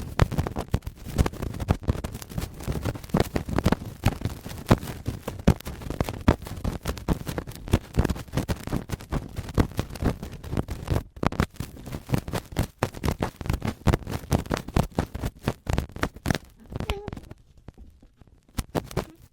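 Adhesive cotton swab rubbing and scraping right against a microphone in ear-cleaning ASMR, making a dense crunchy crackling. It breaks off briefly about eleven seconds in and tapers off near the end.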